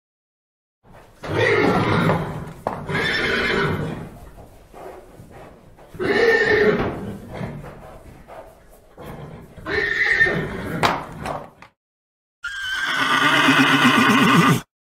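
A horse neighing: several short calls with pauses between them, then a longer, wavering whinny near the end.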